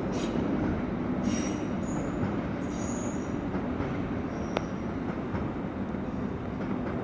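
SBB regional electric train rolling away over the station tracks: a steady low rumble of wheels on rail, slowly fading, with several short high wheel squeals and one sharp click about four and a half seconds in.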